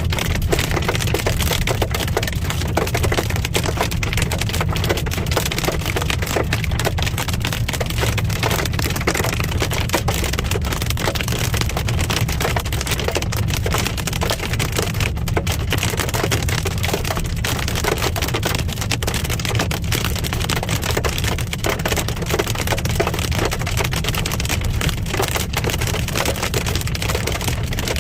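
Hail and rain pelting a moving car's roof and windshield: a dense, steady clatter of small ticks over the car's low, steady road rumble.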